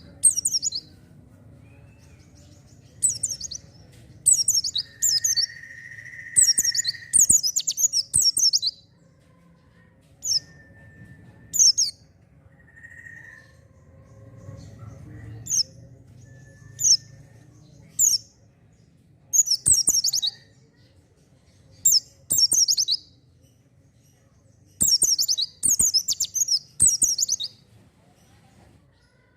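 A pleci (white-eye) singing in repeated short bursts of rapid, high twittering notes with pauses between phrases, typical of a lively 'gacor' bird. A brief held lower whistle comes about six seconds in, over a faint low hum.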